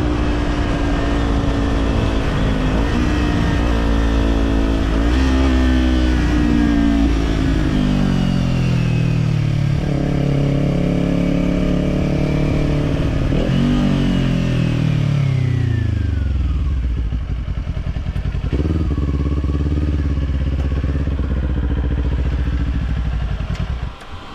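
Kawasaki Z400 parallel-twin engine through a slip-on exhaust, on the move. The revs rise and dip several times with throttle and gear changes, then fall away steeply as the bike slows, and it runs low and steady until the sound drops off near the end.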